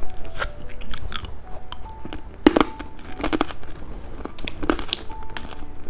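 Rainbow lollipop of hard candy being bitten and crunched: a series of sharp cracks, the loudest about two and a half and three and a quarter seconds in.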